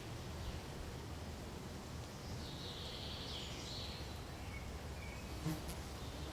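Steady forest ambience with a bird calling once, high and brief, in the middle, followed by a few faint short notes and a single sharp click near the end.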